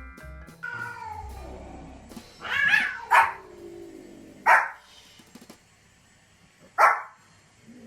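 A dog barking four times, the barks a second or two apart, after a short musical jingle fades out at the start.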